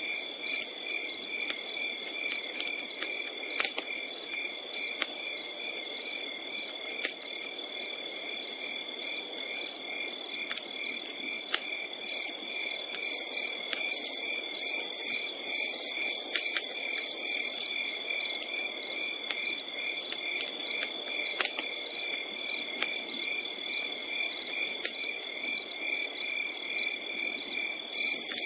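Insects trilling steadily with a rhythmic chirp about twice a second, over a campfire crackling with scattered sharp pops.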